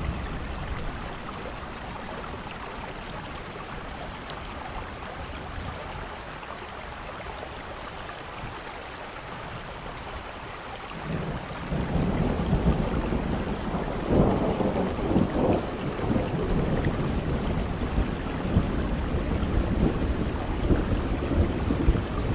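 Steady rain, with a low roll of thunder that builds about halfway through and rumbles on, loudest a few seconds after it starts.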